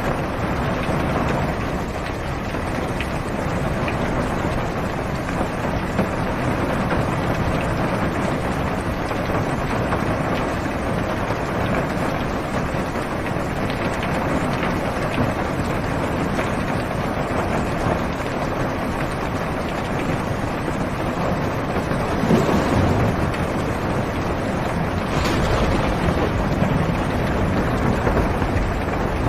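Heavy rain falling on a car's roof and windows, heard from inside the car: a steady rushing hiss that swells briefly louder about three-quarters of the way through.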